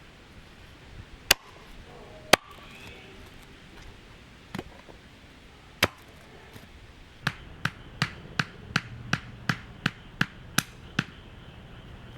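Sharp striking blows: four single hits a second or two apart, then a quick even run of about eleven at roughly three a second.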